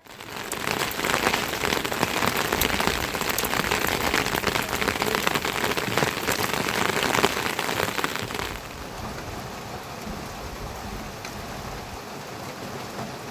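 Heavy rain falling, with many fine drop impacts. About eight and a half seconds in, the sound steps down abruptly to lighter, steadier rain.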